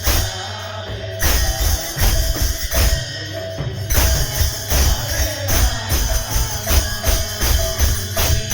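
Kirtan devotional music: drums beat a quick, steady rhythm under jingling metal percussion, with a sustained held tone running beneath.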